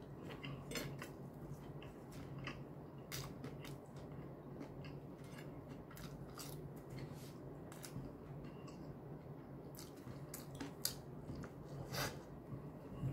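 Faint chewing of a fried chicken sandwich in a soft bread bun, with scattered small mouth clicks and food-handling ticks over a steady low hum.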